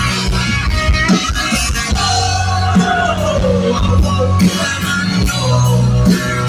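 Live rock band playing loud: electric guitars over sustained bass notes and steady drum hits, with one held note gliding down in pitch near the middle.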